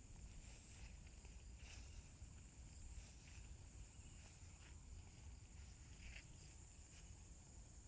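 Faint, steady high-pitched droning of insects in countryside vegetation, with a few faint short sounds over it.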